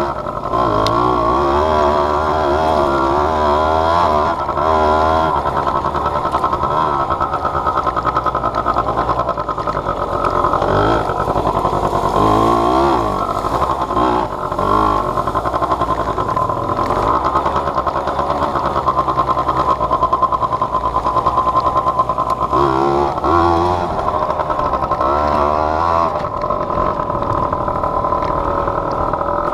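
Small off-road vehicle engine running under load while being ridden, its pitch rising and falling with the throttle over rough ground.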